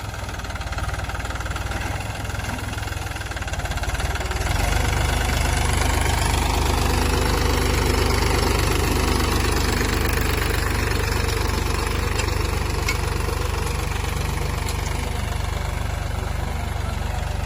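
Tractor engine running steadily, growing louder about four seconds in and then holding at that level.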